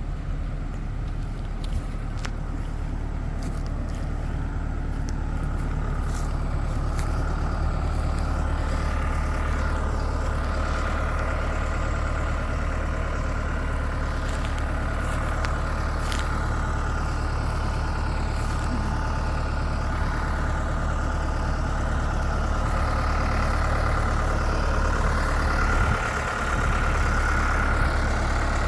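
Tractor engine running steadily, with a brief dip in level near the end.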